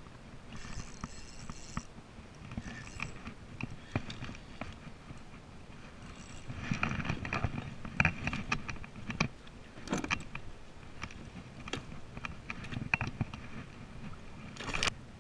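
Scattered clicks and knocks with low rustling, from fishing gear being handled aboard a kayak; the handling is busiest from about six and a half to nine seconds in.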